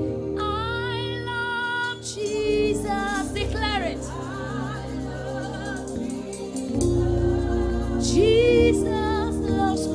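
Gospel worship music: a singing voice with long held notes and sliding runs over sustained chords and a bass line.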